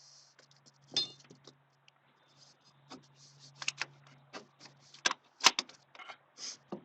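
Metal hand tools and parts clinking and clattering: a run of irregular sharp clicks and knocks, the loudest about five and a half seconds in.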